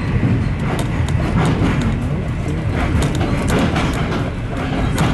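Passenger train running: a steady low rumble with irregular clicks and rattles from the wheels on the rails.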